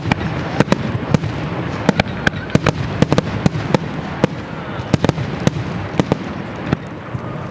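Fireworks display: a rapid, irregular string of sharp bangs and crackles, several a second, over a steady low rumble, with a faint whistle of a rising shell now and then.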